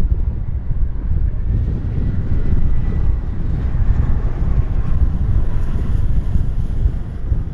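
Strong wind buffeting the microphone, a heavy steady low rumble. A faint high whine comes in about a second and a half in and fades out near the end.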